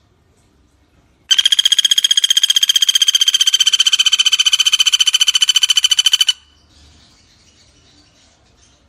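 Pelatuk bawang (common flameback woodpecker) giving one long, rapid rattling trill at a steady pitch, about five seconds long, starting just over a second in.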